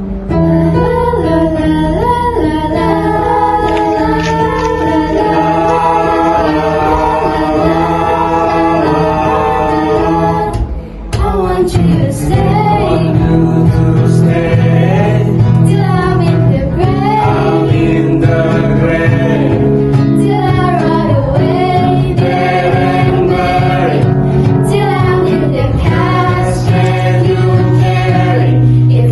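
A vocal group singing a pop ballad in harmony, with a short break about eleven seconds in, after which the singing resumes over strong sustained low notes.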